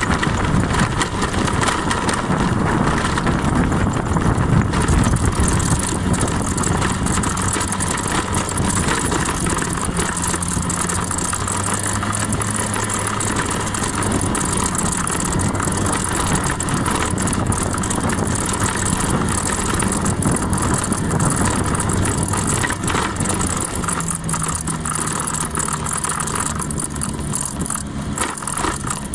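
Honda 50 cc scooter engine running steadily throughout, with a broad rushing noise over the engine note.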